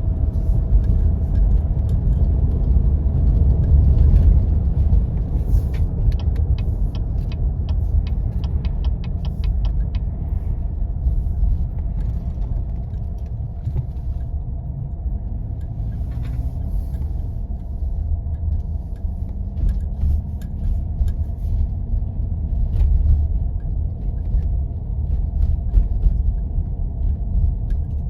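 Steady low rumble of a 4x4 driving on snow-covered back roads. A short run of quick, even ticks comes through about a quarter of the way in.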